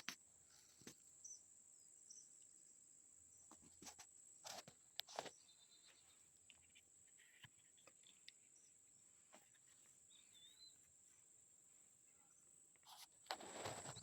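Faint outdoor ambience: a steady high-pitched insect drone, with a few faint bird chirps and some small knocks, and a louder rustle of noise near the end.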